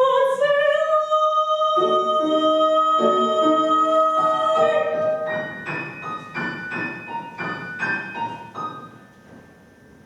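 A classically trained voice holds a long high final note over piano accompaniment. After the voice stops, the piano plays a string of struck chords to close the piece, and they die away near the end.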